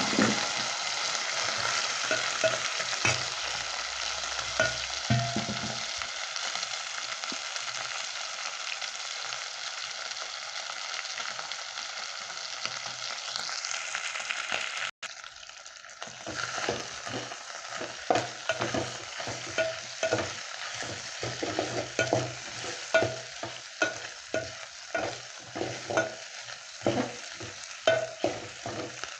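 Chicken meat frying with onions and garlic, sizzling steadily. From about halfway, a utensil stirring and scraping the pot in quick repeated strokes over the sizzle.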